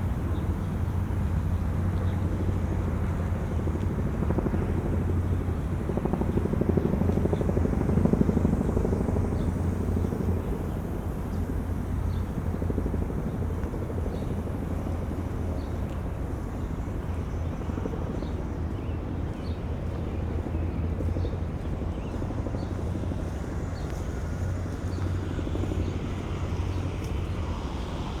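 Low, steady drone of a distant engine, swelling to its loudest about eight seconds in and then easing off, with wind buffeting the microphone.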